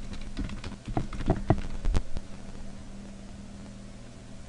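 A handful of computer keyboard keystrokes in the first two seconds, then a steady low electrical hum.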